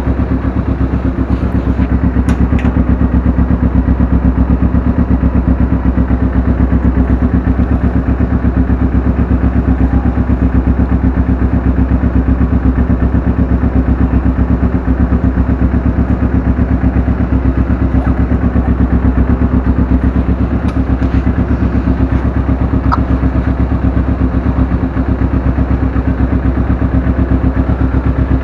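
Kawasaki sport motorcycle's engine idling steadily with an even low pulse.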